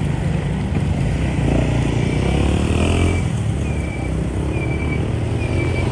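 Motorbike engines running in dense traffic, heard from a moving motorbike, with another engine swelling past in the middle. From about two seconds in, a short high beep repeats roughly once a second.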